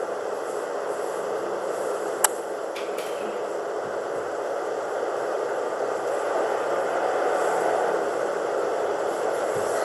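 Steady rushing background noise with no clear source, with a single sharp click a little over two seconds in and a fainter tick just after.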